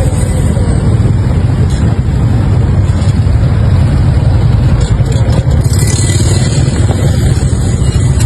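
Steady, loud low rumble of motor-vehicle road noise.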